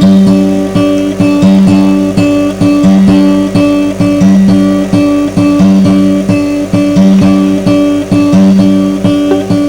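Guitar playing a repeating rhythmic figure, low notes re-struck about twice a second.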